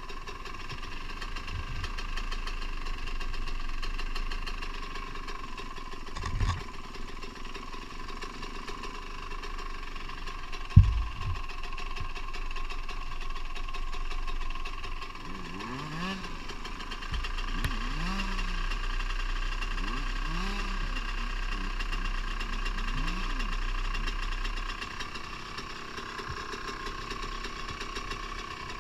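Dirt bike engines running at idle, with one engine revving up and down several times in the second half. Two sharp knocks about a third of the way in, the second the loudest sound.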